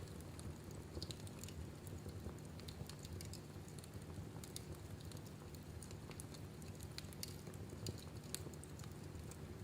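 Wood fire burning in a fireplace: irregular small crackles and pops over a low steady hum.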